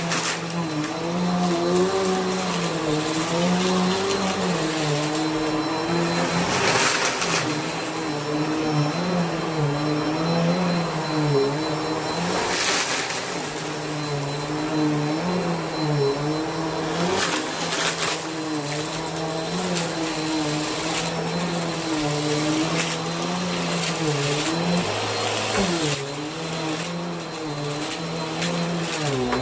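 Bissell vacuum cleaner running, its motor hum wavering up and down in pitch as it is worked, with a few brief louder rushes of air.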